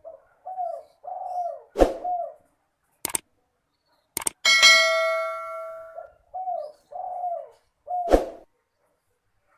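Spotted dove cooing in repeated arched phrases, broken by several sharp clicks and, about four and a half seconds in, a metallic ding that rings and fades over about a second and a half.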